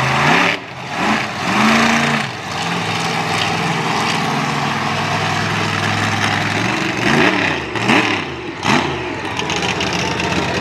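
Monster truck engine revving in short blips, settling into a steady idle for a few seconds, then blipped three more times in quick succession near the end.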